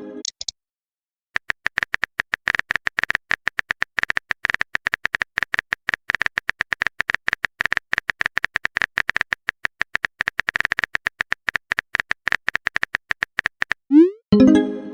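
Phone keyboard typing sound effect: a rapid, irregular run of clicks, several a second, starting about a second and a half in and stopping near the end. A short chime with a rising sweep follows, like a message-sent alert.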